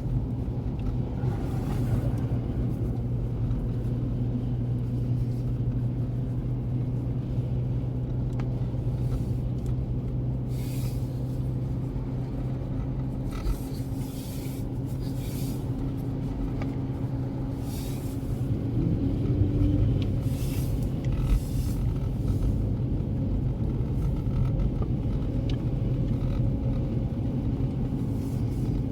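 Car driving on a snow-covered road, heard from inside the cabin: a steady low rumble of engine and tyres with a constant hum. Through the middle stretch, short hissing swishes come every second or two.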